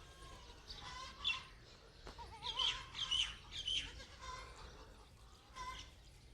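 Birds chirping: a run of short, high calls that each drop in pitch, most of them between about one and four seconds in, with a brief wavering note about two and a half seconds in.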